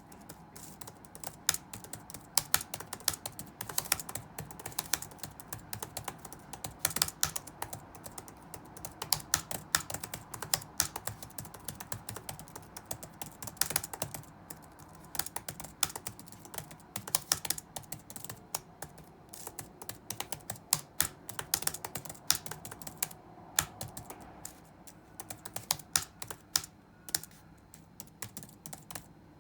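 Computer keyboard being typed on steadily, in irregular runs of keystrokes with brief pauses, over a faint steady background hum.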